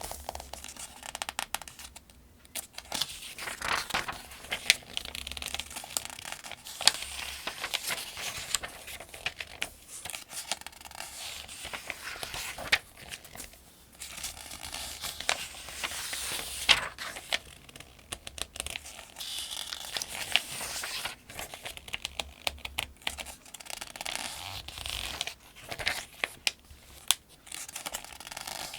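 Pages of a paperback almanac being turned one after another, each turn a crisp rustle and flick of thin paper, with small ticks and swishes in between.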